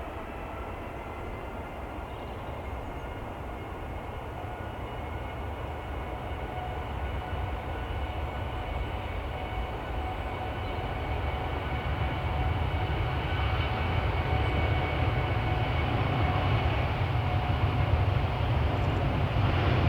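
Jet airliner engines: a steady whine of several tones over a low rumble that grows steadily louder as the aircraft draws closer.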